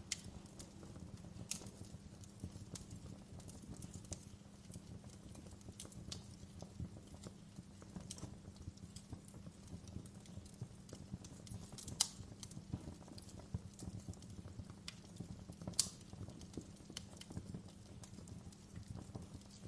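Wood fire crackling in a fireplace: a faint low rumble of burning with frequent small, irregular snaps and a few sharper pops.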